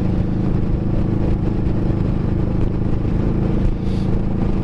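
Kawasaki Vulcan S's 649 cc parallel-twin engine running steadily at a constant road speed, with an even, unchanging engine note.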